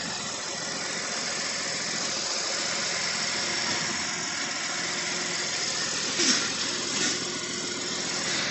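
Car engine idling steadily, with two brief knocks about six and seven seconds in.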